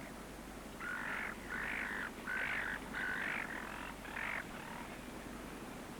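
An animal call repeated five times at an even pace, each call about half a second long and mid-pitched, over a faint steady background.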